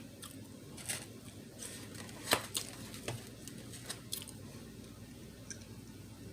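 Close-miked chewing, with wet mouth clicks and smacks. There are a handful of sharp ones at uneven gaps, the loudest a little past two seconds in.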